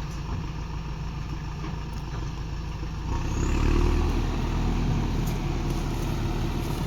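Heavy machine engine running steadily, then revving up about three seconds in and staying louder.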